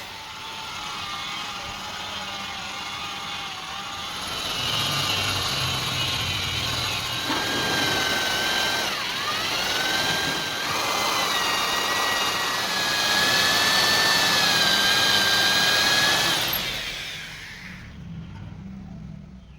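Electric power tool motor running with a high whine. The pitch dips sharply under load about nine seconds in, recovers, and the tool winds down near the end.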